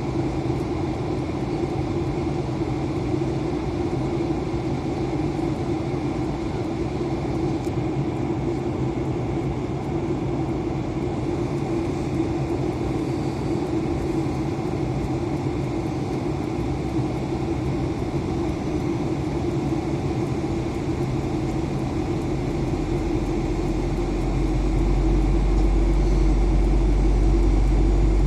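Steady drone of an Airbus A320 in flight as heard in the cabin: engine and airflow noise with a constant hum. About three-quarters of the way through, a deeper low rumble swells up and the whole sound grows a little louder.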